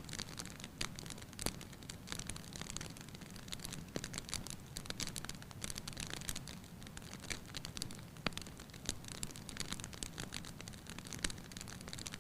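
Wood fire crackling in a fireplace: irregular sharp pops and snaps over a steady low hiss and rumble.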